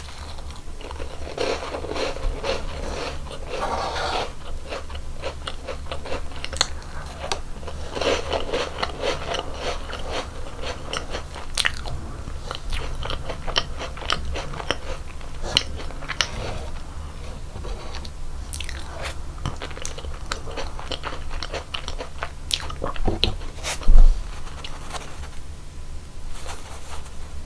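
Close-up eating sounds of a person biting into and chewing cream-filled donuts: wet chewing with many short, crunchy crackles throughout. One loud low thump near the end.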